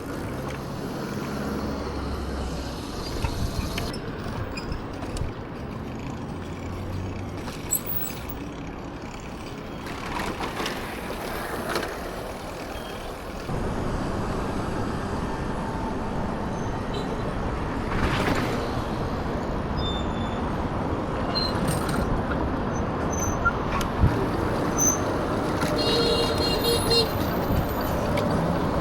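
Street traffic noise: vehicles passing steadily, growing louder about halfway through, with a few short beeps near the end.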